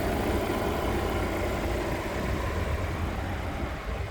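Volvo XC90 T6's supercharged and turbocharged 2.0-litre four-cylinder engine idling steadily.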